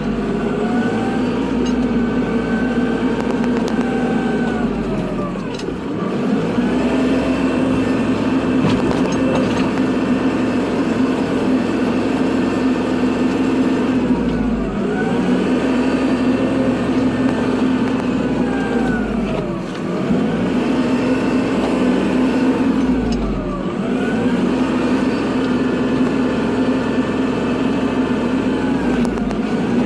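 Kubota tractor's diesel engine running hard while plowing snow. Its pitch drops and climbs back up several times, every several seconds.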